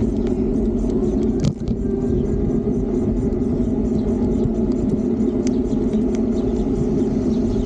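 Steady rumble of riding an electric bike: wind on the microphone mixed with tyre and road noise, with a short knock about a second and a half in.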